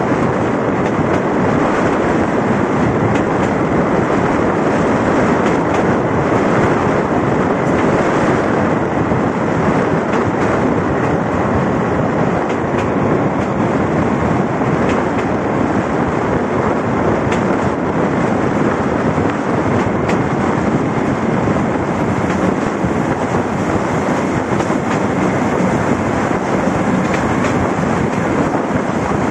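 Steady running noise of a train heard from a window on board while it moves along the line: wheels rolling on the rails with faint clicks scattered through it.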